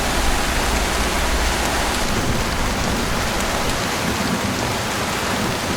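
Waterfall rushing steadily, a dense even wash of falling water; its deep low rumble thins out about two-thirds of the way through.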